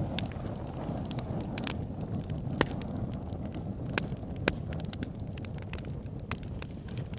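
Wood fire burning in a fireplace: a low steady rumble of flames with frequent sharp crackles and pops, a few of them louder.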